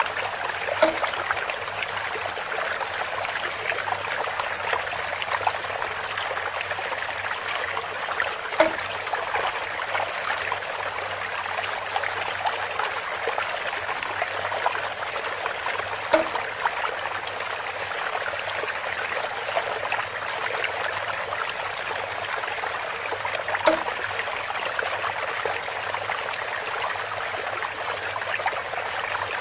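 Water trickling steadily through a bamboo spout, with a short pitched plunk about every seven and a half seconds.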